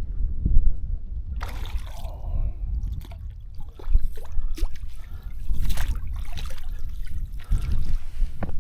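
Water splashing and trickling close by as a small hooked trout is brought in, with wind rumbling on the microphone.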